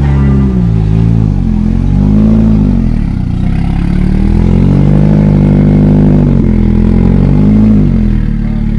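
An engine revved hard again and again, its pitch rising and falling in short blips, with one longer rev held in the middle.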